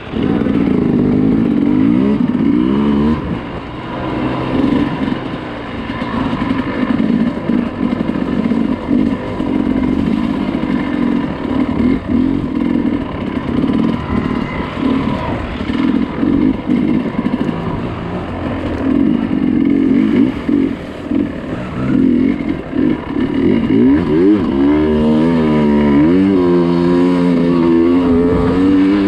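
Dirt bike engine running under constantly changing throttle while riding off-road, with quick rises and falls in revs near the end.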